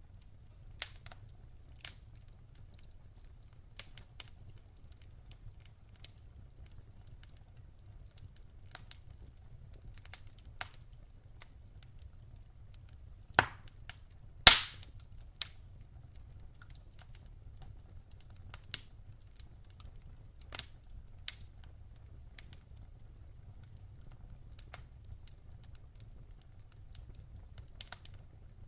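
Wood campfire crackling: scattered sharp pops and snaps every second or two, the two loudest about a second apart near the middle, over a faint low steady rumble.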